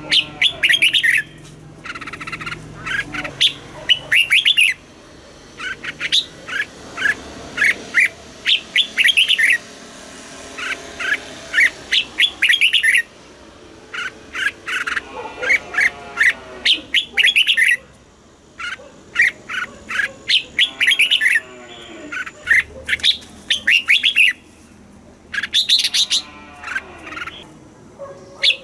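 Red-whiskered bulbul singing: short phrases of quick, bright notes, one after another with brief pauses, and a few lower, harsher calls in between.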